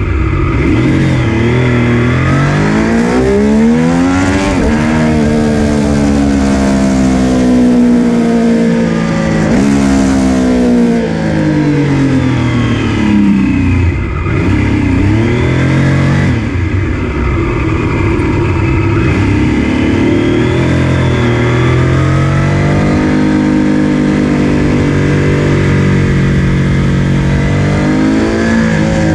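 Triumph Street Triple RS 765's three-cylinder engine through its stock muffler with the secondary catalytic converter removed (main cat still in the collector), revving up and down: the pitch climbs for several seconds, breaks and drops, then climbs again, holding steadier later on.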